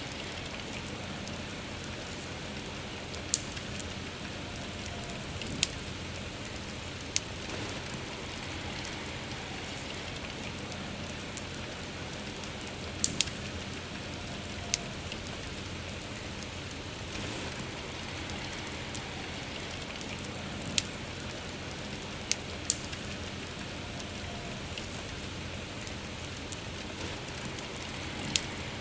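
Steady soft rain with a wood fire crackling: sharp pops stand out above the rain every second or two, at irregular intervals.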